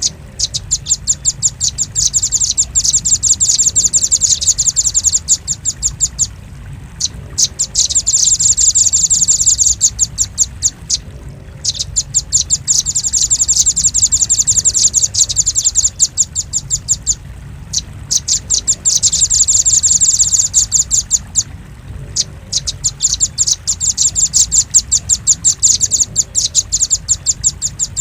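Velvet-fronted nuthatch calling: rapid series of high, sharp chipping notes, about ten a second, in bouts of several seconds broken by short pauses. It is a lure call recording of the kind played to attract this bird.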